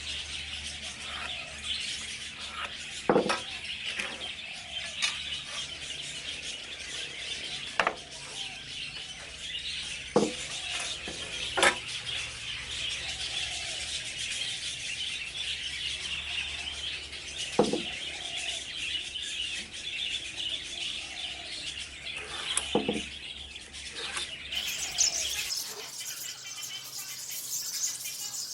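A flock of budgerigars chattering continuously in an aviary, with a few louder sharp calls standing out now and then.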